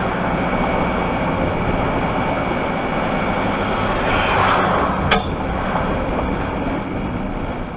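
Steady road and engine noise heard inside a van cab while driving, with a swell of rushing noise about four seconds in and a single sharp tap just after five seconds.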